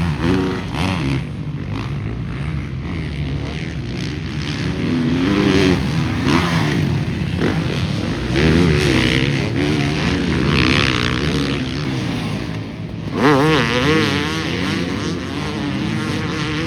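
Motocross bikes revving hard on the track, engine pitch rising and falling as they run the course, with a louder bike revving up close about thirteen seconds in.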